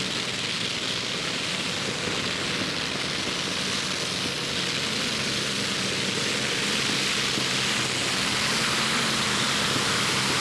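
Modified pulling tractor's engines running flat out under load during a pull: a steady, loud engine howl over a heavy hiss that slowly grows louder.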